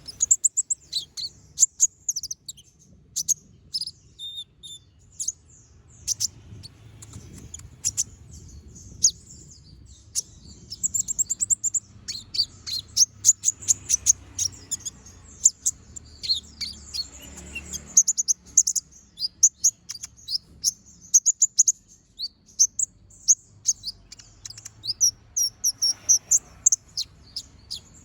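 Kolibri ninja (konin) sunbird singing in a fast, continuous run of sharp, high-pitched chirps and rapid trills, the piercing 'tembakan' notes that bird keepers prize.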